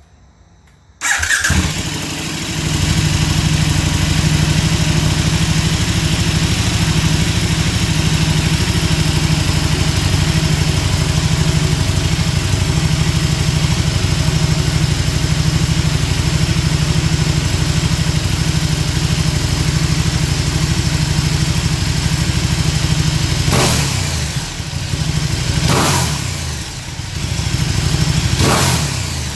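2018 KTM 1290 Super Duke R's V-twin motorcycle engine starts about a second in and settles into a steady idle. Near the end it is blipped three times, with the revs rising and falling quickly.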